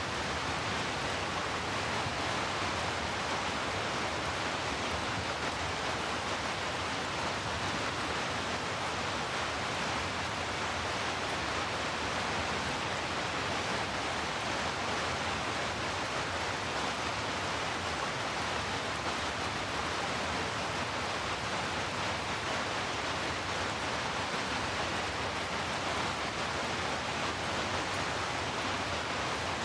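Heavy rain ambience mixed as brown noise: a steady, even rush of rainfall with no separate drops, thunder or changes.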